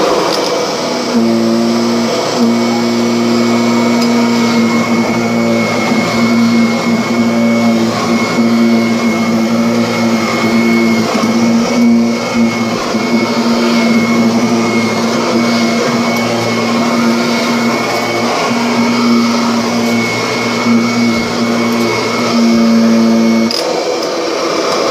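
Kirby Sentria upright vacuum cleaner running steadily, its motor giving a constant high whine over a low hum. The low hum drops out near the end while the motor keeps running.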